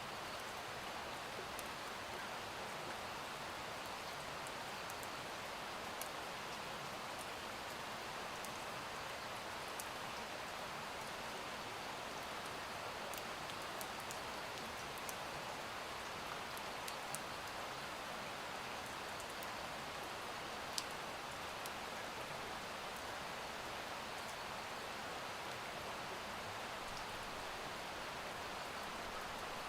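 Steady rain falling, with scattered faint, sharp drop ticks.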